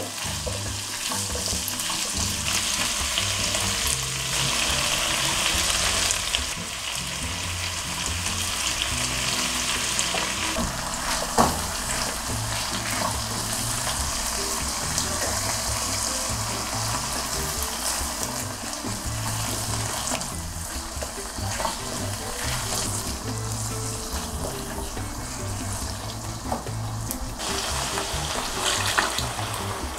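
Diced pork, onion and carrot sizzling as they are stir-fried in a nonstick frying pan, with a silicone spatula stirring and scraping the pan. A single sharp knock comes about eleven seconds in.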